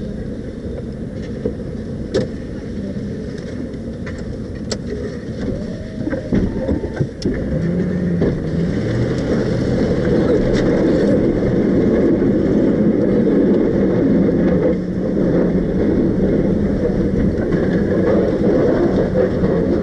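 Ford F-250 plow truck heard from inside the cab: engine and road noise while driving, with a few knocks. It gets louder about seven seconds in as the engine pitch steps up.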